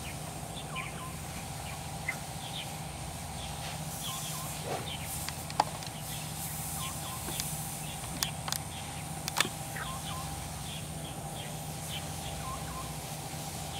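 Birds chirping in short calls over a steady low hum, with a few sharp clicks scattered through, the loudest about halfway.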